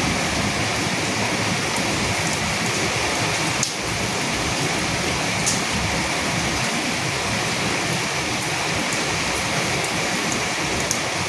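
Steady rainfall: an even, continuous hiss of rain with a few sharper ticks of single drops.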